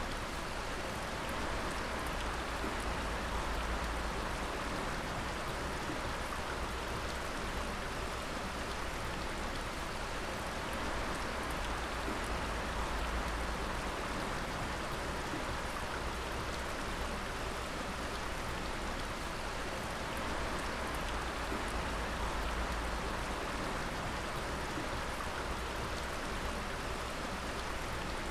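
Water dripping in a dense, steady patter of many drops, sounding much like rain.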